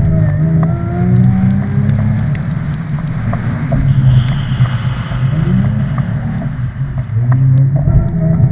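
Car engine revving up and down over and over, its pitch rising and falling several times, with a brief hiss partway through.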